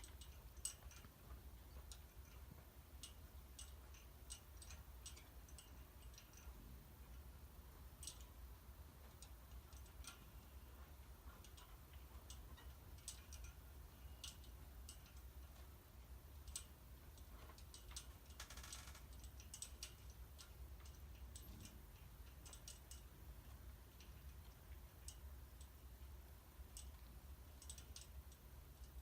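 Near silence: a faint steady low hum with scattered faint, irregular ticks and clicks while a switched-off 1970s ceiling fan coasts to a stop.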